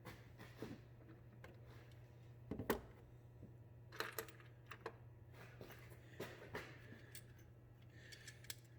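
Faint, scattered small metallic clicks and taps of a nut being started by hand onto the alternator's cable terminal, over a steady low hum.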